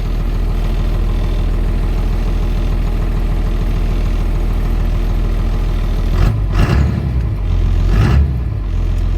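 Cummins turbo diesel engine of a 1982 Chevy C30 running steadily as the truck is driven, its note briefly wavering up and down twice near the end.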